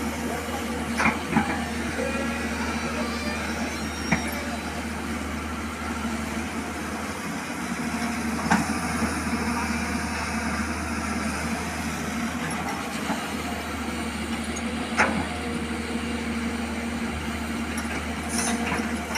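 Hyundai 210 excavator's diesel engine idling steadily, with a few short sharp knocks heard over it.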